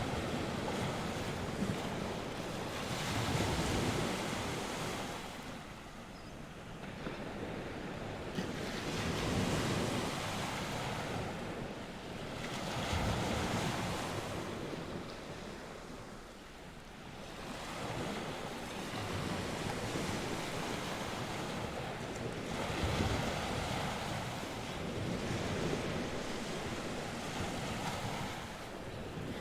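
Surf on the sea coast: waves break and wash in, swelling and falling back every four to five seconds, with wind blowing across the microphone.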